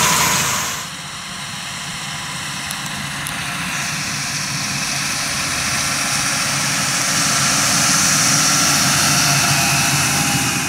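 Large farm tractor's engine running at work. It drops in level about a second in, then grows steadily louder, as if drawing nearer, with a high hiss over the engine note.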